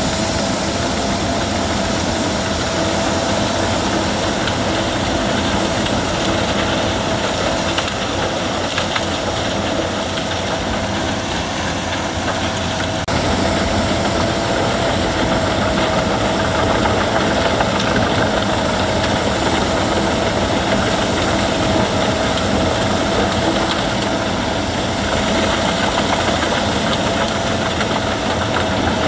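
Albach Diamant 2000 wood chipper running steadily, a constant whine over the engine noise. There is a sudden small jump in loudness about halfway through.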